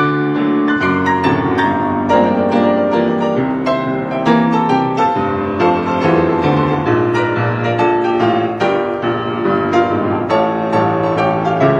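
Piano music: a continuous flow of quick notes over sustained lower notes.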